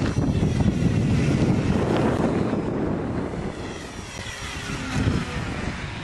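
Parkzone T-28 Trojan RC airplane's electric motor and propeller buzzing as it flies by, the pitch sliding as it passes. Gusty wind buffets the microphone underneath.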